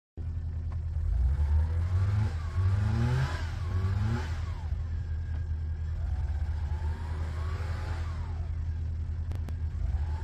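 Car engine revving in repeated surges, its pitch climbing and dropping several times over a steady low drone.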